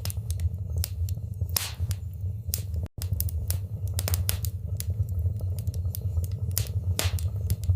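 Wood fire crackling in a fireplace: irregular sharp pops and snaps, several a second, over a steady low rumble of burning. The sound cuts out completely for an instant about three seconds in.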